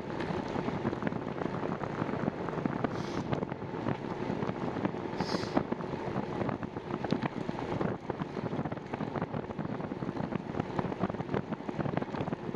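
Wind buffeting the microphone of a camera on a moving bicycle, over a steady road rumble with many small rattles and clicks. Two brief hisses come about three and five seconds in.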